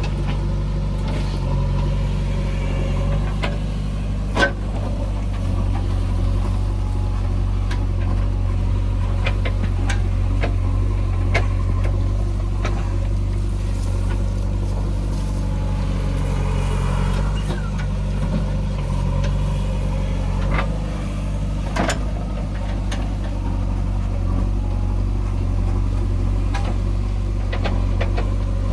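Diesel engine of a JCB 3DX backhoe loader running steadily under working load while digging and loading earth, with scattered sharp knocks, the loudest about four seconds in and another near the end.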